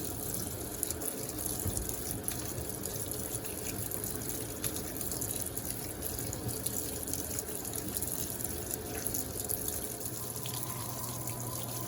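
Electrolux LTA15 top-load washing machine filling, water running steadily into the tub. A low hum comes in about ten seconds in.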